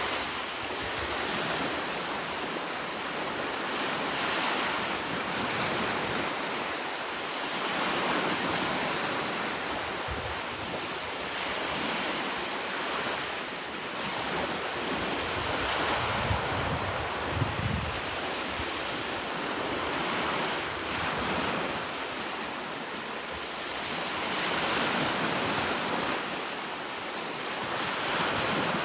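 Sea waves breaking and washing on the shore, the surf rising and falling in slow swells every few seconds.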